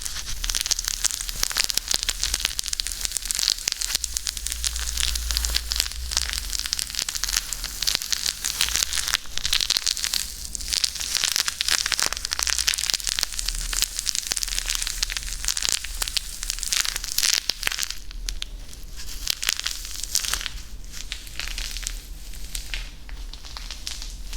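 Dense, fast crackling clicks from close-miked ASMR triggers, thinning out a little after about eighteen seconds.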